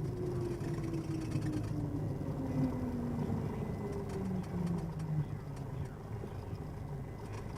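Cessna 172N's four-cylinder engine at idle as the plane slows after landing, its pitch falling steadily for the first few seconds as the propeller slows, then running on evenly.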